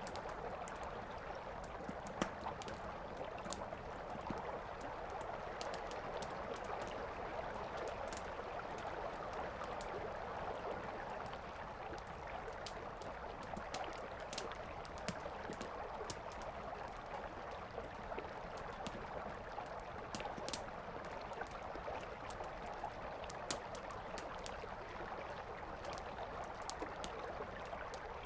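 Wood campfire crackling and popping in sharp, irregular snaps over the steady rush of a flowing river.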